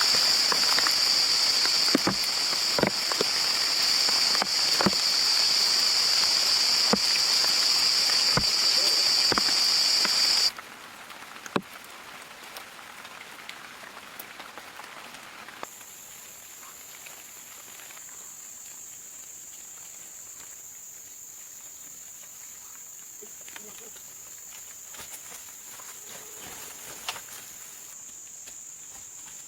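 Forest ambience: a loud, steady, high insect drone with scattered sharp snaps and knocks, which cuts off abruptly about ten seconds in. What follows is much quieter background with a few faint clicks, and from about halfway a thin, steady, high whine.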